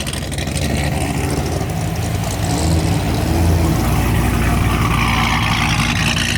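A performance car's engine running with a deep, low note, its pitch shifting as it is revved lightly about two to four seconds in.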